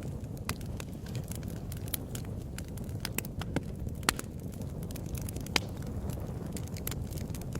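Fire in a fireplace crackling: irregular sharp pops and snaps over a steady low rumble of the flames, with a couple of louder pops about four and five and a half seconds in.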